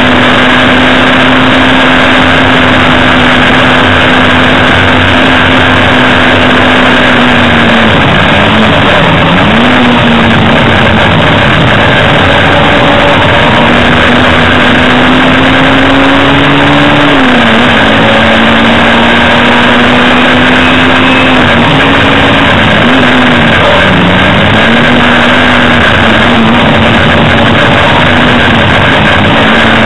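Hillman Imp race car's rear-mounted four-cylinder engine running hard, loud inside the cabin. Its steady high note dips and climbs back several times, around eight, seventeen and twenty-four seconds in, as the driver lifts off and shifts gear for corners.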